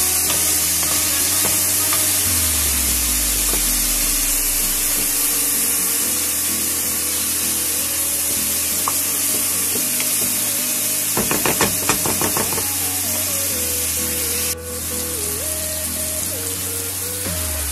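Diced chicken breast sizzling as it fries in oil in a nonstick pot while it is stirred with a wooden spatula, browning. The sizzling hiss drops suddenly near the end.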